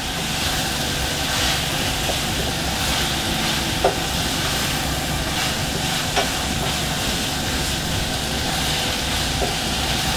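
Shredded cabbage, bell peppers and smoked fish sizzling steadily in a pan while a spatula stirs them, with a few short knocks of the spatula against the pan.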